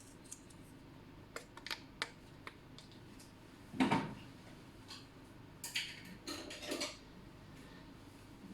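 Kitchen dishes and utensils clinking and knocking: scattered light clicks, one louder knock about four seconds in, and a short run of clatter around six to seven seconds.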